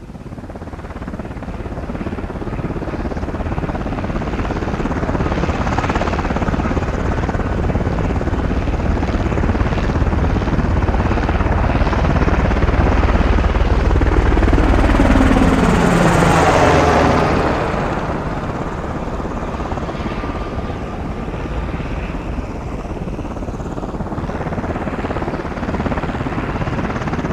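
Helicopter flying toward and past, its rotor rumble growing louder. The pitch drops as it passes about sixteen seconds in, and it is quieter afterwards as it moves off.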